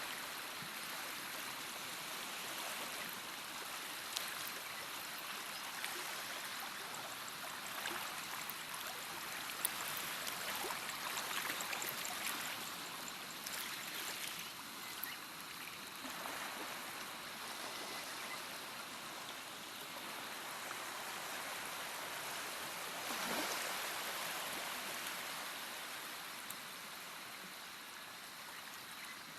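Stream of water flowing and trickling steadily, with small splashes and gurgles and gentle swells in level.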